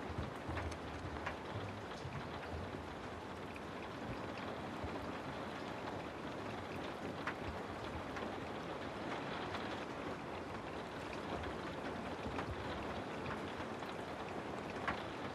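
Steady rain falling, with scattered sharp drops standing out against the even hiss.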